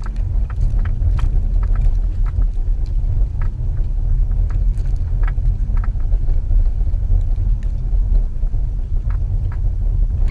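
2014 Subaru XV Crosstrek driving off-road through snow: a steady, heavy low rumble of engine and tyres with a constant hum, and scattered short ticks and knocks throughout.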